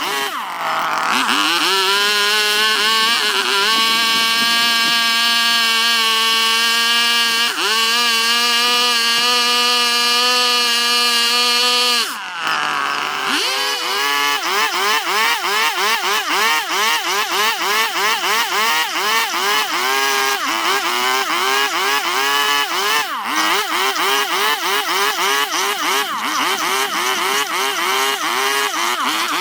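A small electric carving tool, such as a rotary grinder, runs at a steady whine, stops briefly about twelve seconds in, then restarts. After the restart its pitch dips and recovers about twice a second as it is worked against the wood.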